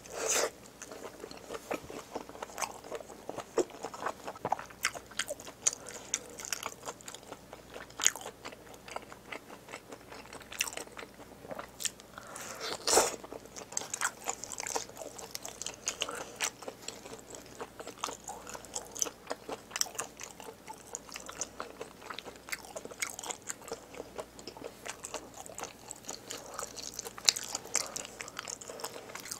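Close-miked chewing and biting of braised pig's trotters (jokbal) in spicy sauce: a steady run of small sharp clicks and smacks, with a loud bite at the very start and another about halfway through.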